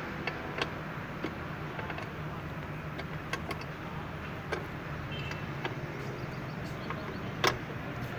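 Scattered light clicks and taps of hand tools and fittings being handled, with one sharper knock about seven and a half seconds in, over a steady low hum.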